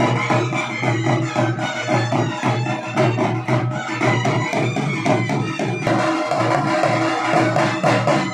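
Traditional folk music with fast, steady drumming over sustained tones.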